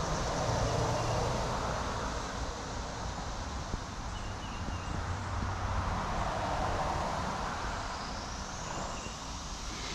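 Road traffic going by: tyre and engine noise that swells and fades, twice.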